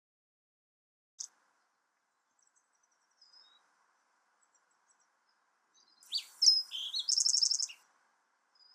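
Songbird calls: a single sharp chirp, a few faint chirps, then a louder burst of song ending in a fast trill.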